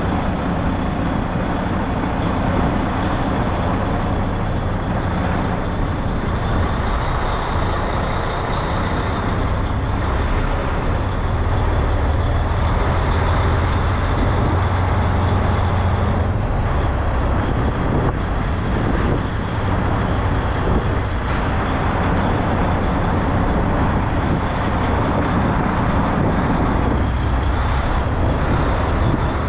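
Semi truck's diesel engine running with a steady low drone, over a broad, even rumble of cab and road noise.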